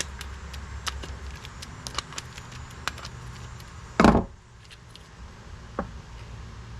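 Small metal clicks and clinks of a wrench and carburetor parts being handled while the carburetor's float bowl nut is worked off, with one loud thump about four seconds in.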